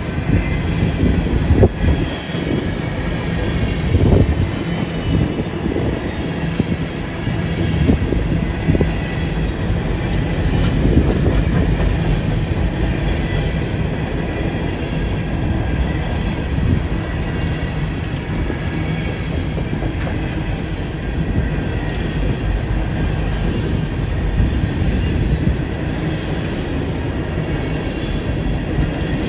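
A train rolling past: a steady rumble of wheels on rail, with a few sharp clacks over rail joints in the first ten seconds and a faint, thin high squeal from the wheels.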